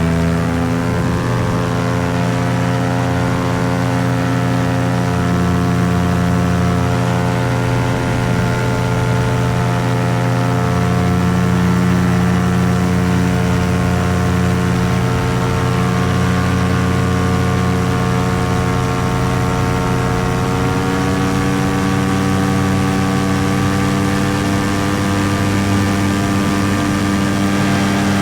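Paramotor engine and propeller running steadily under power. The engine note rises slightly about twenty seconds in.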